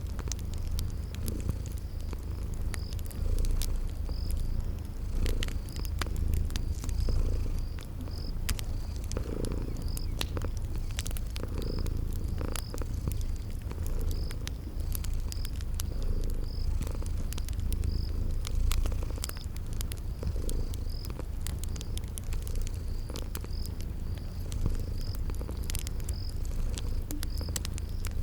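Cat purring in a steady low rumble, with a cricket chirping about once a second and a wood fire crackling in scattered sharp pops.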